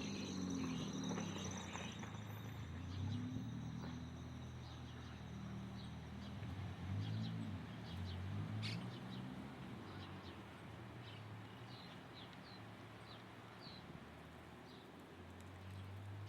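Small birds chirping, with short high chirps repeating in the second half, over a steady high insect buzz in the first couple of seconds and a wavering low hum underneath.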